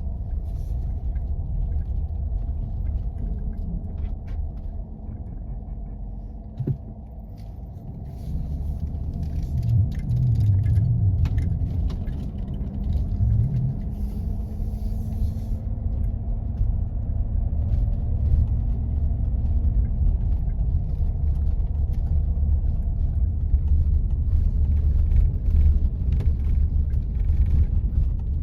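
A 4x4 driving on snow-covered back roads, a steady low rumble of engine and tyres. It eases off briefly with a single knock about seven seconds in, then grows louder again.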